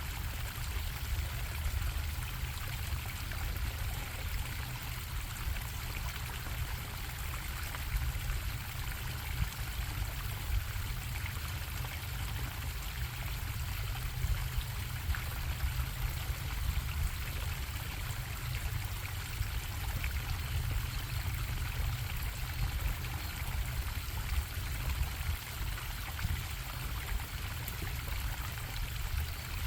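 Stream water flowing and bubbling steadily, with a continuous low rumble underneath.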